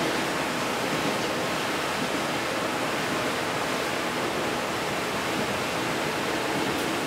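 Steady rushing rumble of a Taiwan Railways Chu-Kuang express passenger carriage running along the track, heard from inside the cabin.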